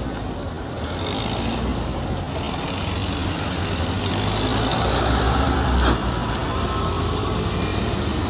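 Road traffic: vehicle engines and tyres, with a heavy vehicle's low rumble swelling to a peak about five to six seconds in, and a single sharp knock near the peak.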